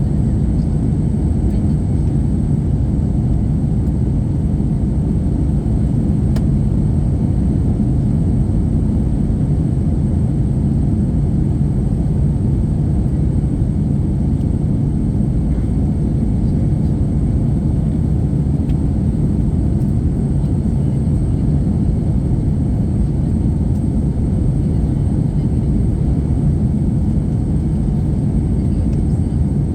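Steady low rumble of an Airbus A321-231's IAE V2500 turbofans and airflow, heard from inside the passenger cabin, with a faint steady high whine over it.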